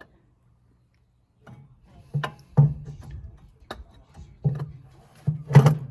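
A series of sharp knocks and clunks, about six in three and a half seconds, starting about a second and a half in.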